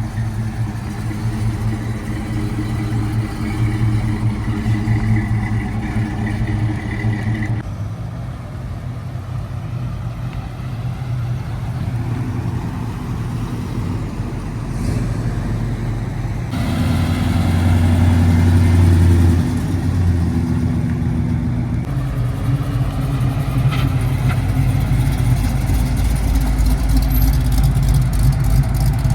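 Classic car engines running at low revs, one after another in several short shots, each with a deep, steady rumble.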